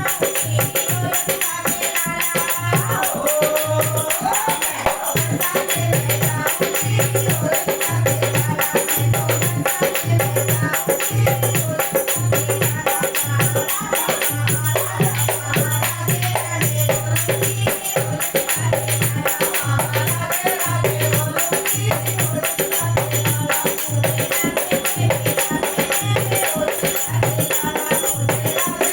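Bhajan music driven by a dholak playing a brisk, steady rhythm of deep bass strokes, with jingling hand percussion and a melody line over it.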